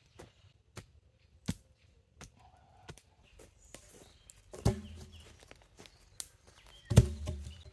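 Wood being struck during log work: a string of light knocks and clicks, then two heavy, hollow thuds about two seconds apart near the end, the second the loudest.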